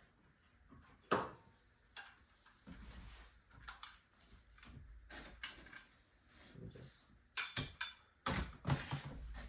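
Irregular sharp clicks and knocks, some with a dull thump, scattered over several seconds.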